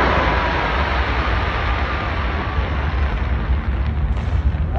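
Fireworks going off in dense, rapid succession, the bursts and crackles merging into one loud, steady rumble with a heavy low boom on the phone's microphone.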